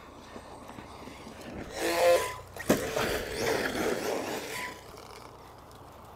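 Arrma Mojave brushless RC truck in action: a short burst of motor whine about two seconds in, a sharp impact just under three seconds in, then about two seconds of tyres and chassis scrabbling over dirt before it fades.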